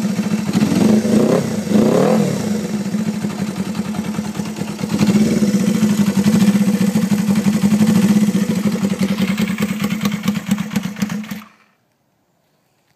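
Benelli 125 twin motorcycle engine with a pair of Benelli GP silencers, blipped a few times so the revs rise and fall, then running steadily. Near the end the engine is switched off and the sound cuts out abruptly.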